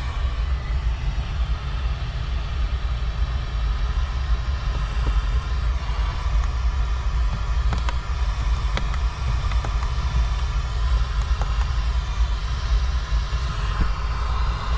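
Nissan 370Z's 3.7-litre V6 running with a steady low rumble that holds the same level, with no revving.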